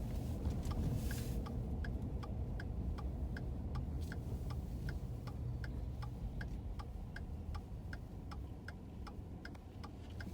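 A car's turn-signal indicator ticking steadily, about three clicks a second, over the low rumble of the car's interior as it drives on snowy road.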